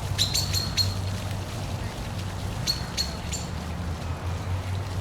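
Steady low rushing rumble of a park waterfall, with short sharp bird chirps in quick runs: four near the start and three about midway.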